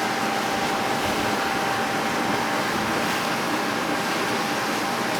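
Electric blower fan running steadily, a constant rushing of air, as it inflates an inflatable paint booth.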